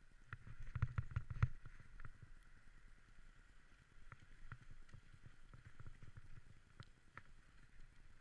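Dog sled travelling over snow: a cluster of knocks and thumps in the first second and a half, then steady scraping with scattered clicks.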